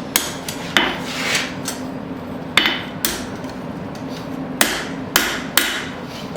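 Blacksmith's hammer striking a horseshoe on an anvil, about eight irregularly spaced blows over a steady hum.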